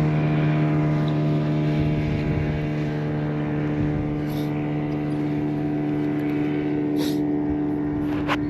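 Passing motorboat's engine running at a steady, unchanging pitch, with a short click or two near the end.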